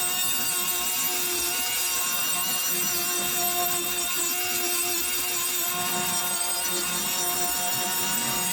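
Power tool spinning a carbide burr, grinding steadily against the pitted, rusty steel of an antique ice claw, a constant motor whine over a gritty grinding noise.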